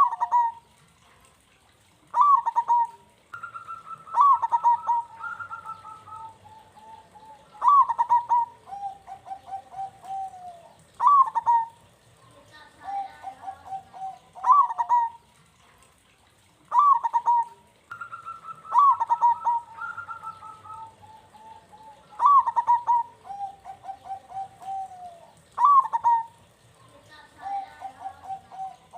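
Local zebra dove (perkutut) cooing its song, repeating a phrase every three to four seconds. Each phrase opens with a sharp higher note and rolls into a rapid run of lower notes, the deep 'kung' coo that perkutut keepers prize.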